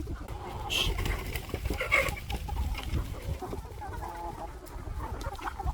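Chickens clucking, with short pitched calls, over a low rumble and a couple of brief rustling noises about one and two seconds in.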